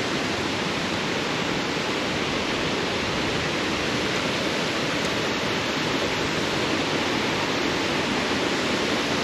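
Waterfall swollen by heavy rain, its water falling and rushing in a loud, steady roar close by.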